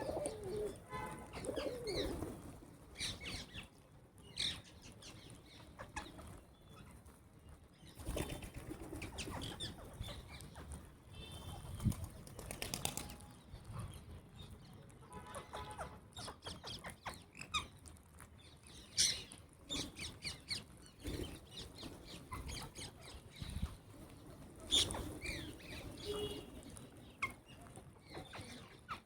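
A flock of birds at a feeding spot: wings flapping again and again, with many short calls scattered throughout.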